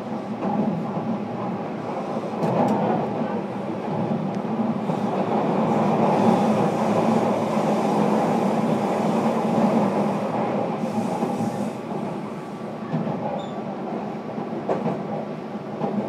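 Running noise inside the motor car of a JR Kyushu 305 series electric train under way: a steady rumble of wheels on rail and drive hum. It swells to its loudest in the middle and eases later on, with a few sharp rail-joint clacks.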